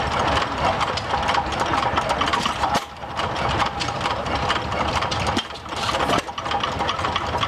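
1913-era Sulton gas engine (Whitman Agricultural Co.) running, a steady mechanical clatter of knocks with two brief dips in level.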